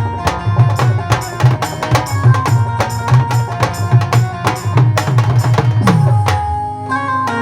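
Live band music led by drums playing a fast, even beat under a held melody. Near 6 s a low tone slides down and the beat thins for about a second before picking up again.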